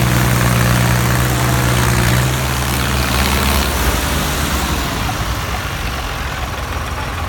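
Tractor diesel engines running together while pulling a stuck trolley. The strongest engine note drops away about two seconds in, and the sound eases to a lower, steadier engine noise.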